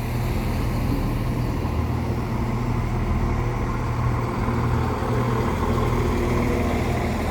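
CrossCountry diesel train's engine running with a steady low hum.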